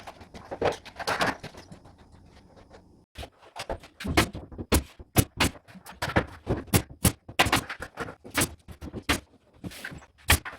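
A few seconds of scraping and rustling noise, then a string of sharp knocks and clacks, irregular at about two a second.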